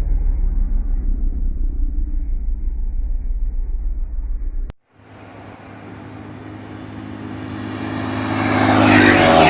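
Sport motorcycle engine sound. First comes a low, steady rumble. About four and a half seconds in it cuts off, and then a sport bike's engine grows steadily louder over about four seconds as it comes closer, ending loud near the end.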